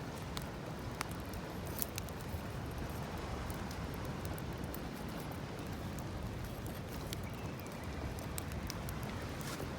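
Occasional sharp knocks and crackles over a steady low rumble: thick, knotty firewood being chopped into small pieces beside a wood campfire.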